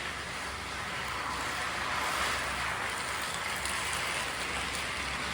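Battery-powered motorized toy train running on plastic track: a steady whirring of its small motor and gears with the rattle of wheels on the track.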